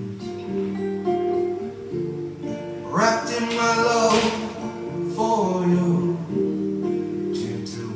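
Live acoustic guitar strumming a slow accompaniment to a folk ballad, with a sung phrase starting about three seconds in and ending around six seconds.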